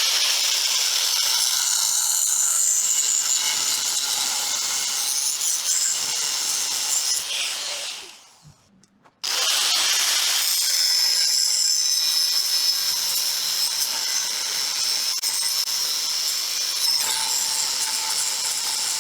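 A power tool cutting through steel rebar, a steady high-pitched cutting noise with a thin whine over it. The cut runs down and stops about eight seconds in, then a second cut starts abruptly about a second later and runs steadily.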